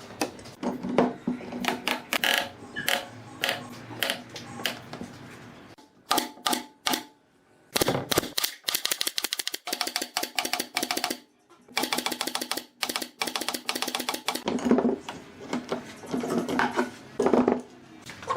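Runs of rapid, sharp clicks and taps, several a second, broken by short pauses.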